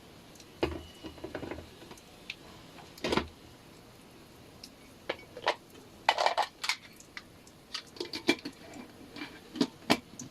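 Kitchen utensils and dishes clinking and knocking at irregular intervals, a dozen or more separate sharp strikes with short rings, during food preparation.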